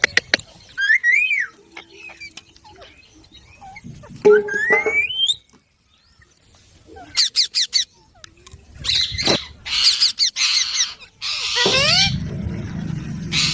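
Indian ringneck parakeets calling and squawking. Whistled calls slide up in pitch, a quick run of sharp clicks comes about seven seconds in, and harsh screeches follow toward the end.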